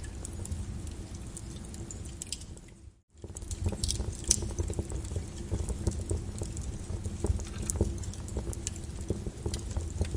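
Lava crackling and popping with irregular sharp clicks over a low, steady rumble. About three seconds in, the sound fades out to near silence for a moment and fades back in.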